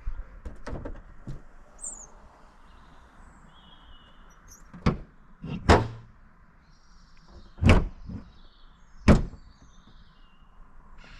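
Several separate sharp knocks and clunks, a second or more apart, the loudest about 6, 8 and 9 seconds in, with faint bird chirps in the background.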